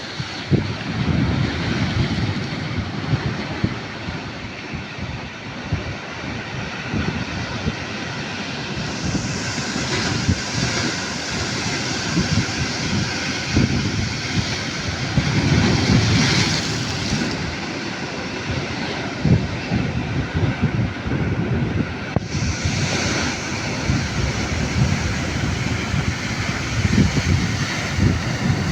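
Sea waves breaking and washing onto the shore, with surges of hiss about every six or seven seconds, and wind buffeting the microphone.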